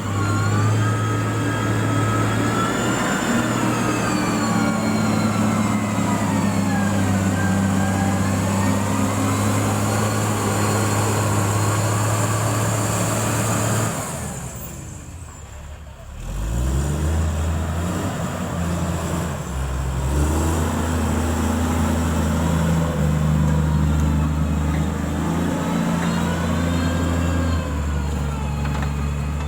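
Heavy road-construction machine's diesel engine running, with a whine above it that falls and rises in pitch. About halfway through the sound drops away for a couple of seconds, then the engine comes back at a lower, steady note.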